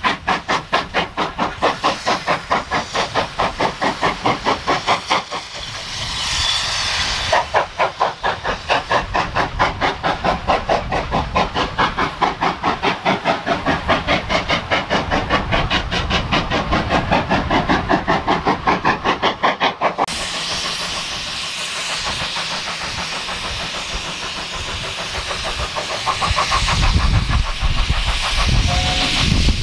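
Steam locomotive working, its exhaust beating evenly and rapidly. About two-thirds of the way through the beats stop abruptly and a steady hiss of steam carries on, with a low rumble rising near the end.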